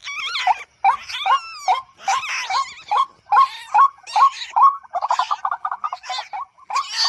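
White-breasted waterhen calls: short notes repeated about twice a second, with higher wavering notes over them in the first two seconds and a quick stuttering run about five seconds in.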